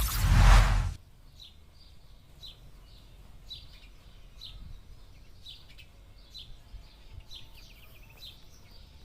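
A loud rush of noise in the first second, then a bird chirping over and over, one short high chirp about every second.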